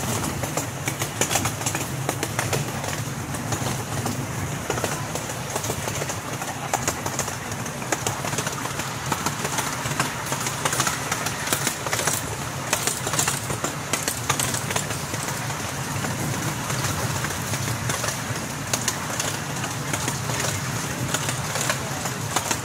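Small amusement-park train under way: a steady low engine drone with frequent irregular clicks and rattles from the running cars.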